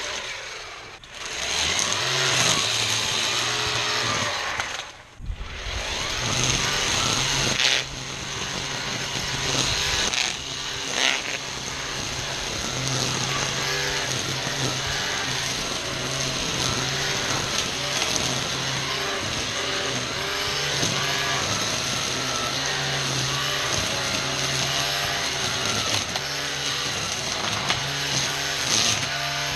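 ECHO 58-volt battery string trimmer running, a steady electric motor hum with a high whine as the line cuts through tall weeds and grass. The sound drops away briefly twice, about one and five seconds in, then holds steady.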